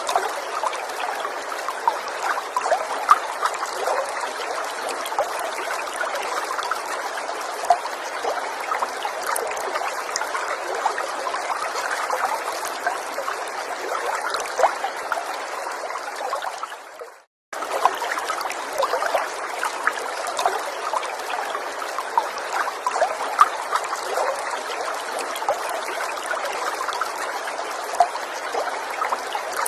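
Small forest stream trickling steadily over stones, with many small splashes. The sound fades out and drops to silence for about half a second roughly two-thirds of the way through, then comes back.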